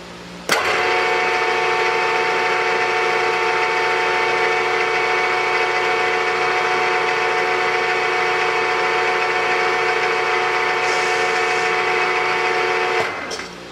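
Milling-machine spindle of a 3-in-1 lathe/mill running at steady speed, a constant whine of several tones, switched on about half a second in and shut off near the end.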